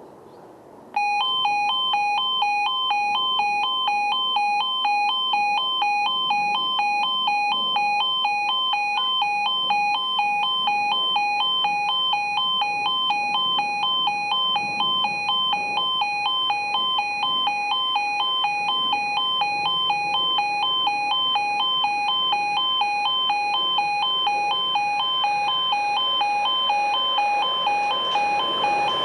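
Railway level crossing warning alarm sounding as a train approaches: an electronic two-tone yodel that switches rapidly and evenly between two pitches, starting suddenly about a second in and holding steady.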